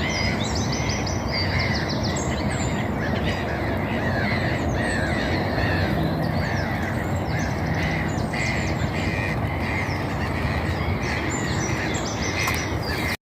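Woodland birds chirping and singing, many quick overlapping calls, over a steady low rumble.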